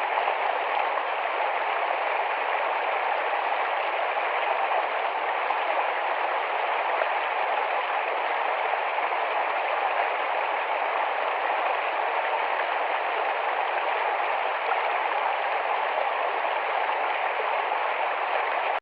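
Rapid shallow forest stream running over rocks: a steady, even rush of flowing water.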